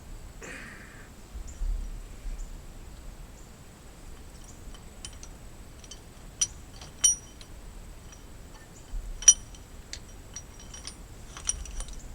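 Scattered light metallic clinks and taps, a few of them sharp and ringing, over a low steady rumble.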